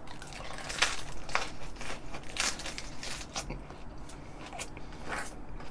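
Biting into and chewing a raw napa cabbage leaf wrap with rice and grilled cuttlefish: crisp, irregular crunches, several a second.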